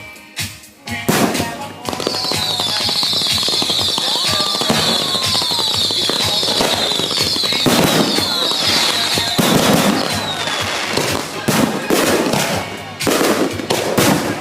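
Fireworks going off: a steady run of bangs and crackles, with a string of high, falling whistles from about two seconds in until past the ten-second mark.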